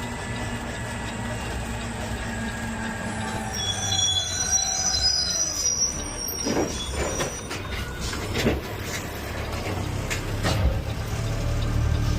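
Automated side-loader garbage truck running with a steady low engine hum, high-pitched squealing about four seconds in, then a series of metallic clunks and knocks.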